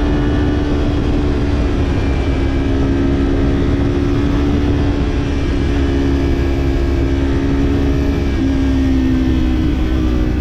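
Kawasaki parallel-twin motorcycle engine with a slip-on exhaust, running at steady cruising revs, with heavy wind rumble on the camera. The engine note drops a little about eight seconds in, then climbs again near the end.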